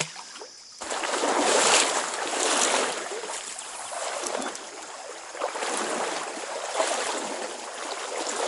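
Stream water rushing and splashing close to the microphone, its loudness rising and falling about once a second.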